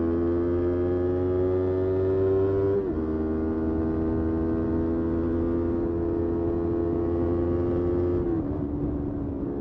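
Motorcycle engine pulling hard under acceleration, its pitch climbing slowly, with quick upshifts about three seconds in and again near the end.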